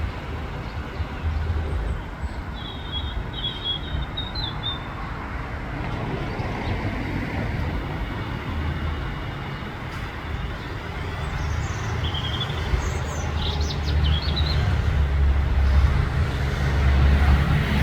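Small birds chirping in short, high twittering phrases, a few seconds in and again about two-thirds of the way through, over a loud, steady low rumble that grows louder near the end.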